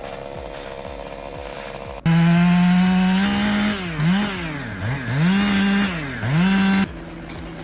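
Chainsaw running at full throttle, starting suddenly about two seconds in; its pitch drops and climbs back three times as it is throttled off or bogs, then cuts off abruptly near the end. A quieter steady engine sound comes before it.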